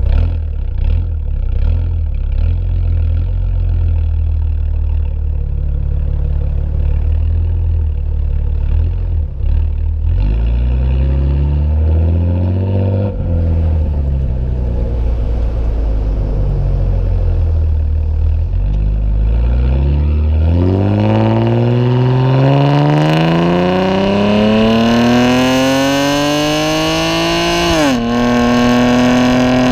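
BMW E90 328i's inline-six running through aftermarket headers and a performance exhaust: low-rpm engine note rising and falling gently, then from about two-thirds of the way in a long hard acceleration with the pitch climbing steadily for about eight seconds. The pitch drops sharply near the end at an automatic-transmission upshift.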